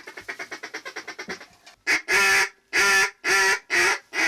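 Duck call blown in mallard hen quacks: a fast, faint chatter, then from about two seconds in a string of loud quacks, the later ones shorter than the first, as in a descending hen call used to talk ducks down.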